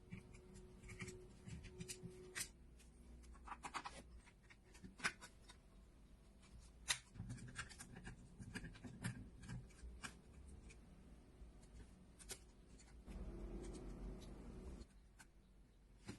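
Light handwork on a small object: scattered sharp clicks and taps, with a stretch of scraping or rubbing about thirteen seconds in that stops about two seconds later.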